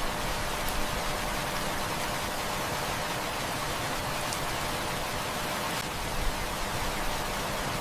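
Heavy rain falling steadily, an even dense hiss, with a few faint ticks now and then.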